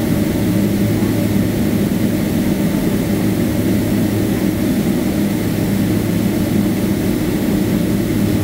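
Steady jet airliner cabin noise: a dense, even low rumble of the engines and airflow heard from inside the passenger cabin, with a few steady hum tones.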